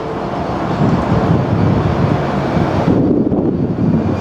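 Trains at a station platform: a Class 377 electric multiple unit drawing in beside a diesel freight locomotive, a loud low rumble that builds over the first second and then holds steady. A faint high whine joins about three seconds in.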